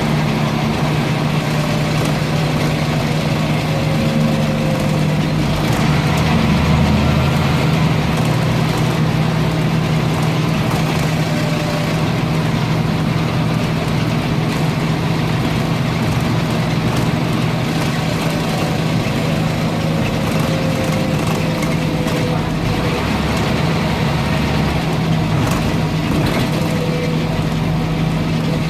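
Scania N230UB single-deck bus running steadily, its engine giving a constant low hum, with a faint falling whine recurring every few seconds.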